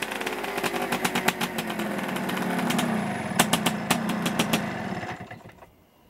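Suzuki 250 single-cylinder two-stroke motorcycle engine running with many sharp pops and crackles, then dying away to a stop about five seconds in.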